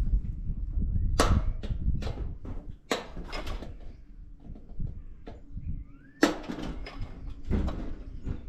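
Metal clanks and scrapes from scrap appliance parts being handled and pulled apart, with several sharp knocks.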